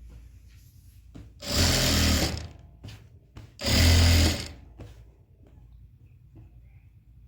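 Sewing machine stitching in two short runs of just under a second each, about a second and a half and three and a half seconds in, with quiet pauses between.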